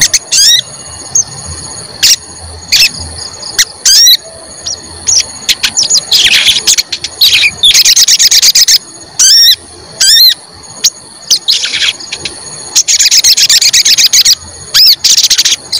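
A sogon songbird calling over and over: short, sharp whistled 'cuit cuit' notes, broken by several dense trilling bursts about a second long. A thin, steady high tone runs underneath.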